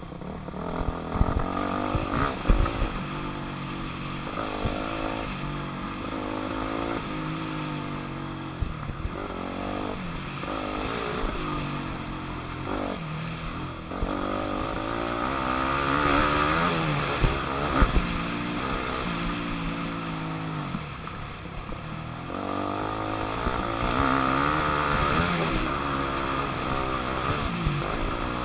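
2006 Yamaha YZ250F four-stroke single-cylinder dirt bike engine, ridden hard: it revs up and drops back over and over as the rider works the throttle and gears, with a few sharp knocks.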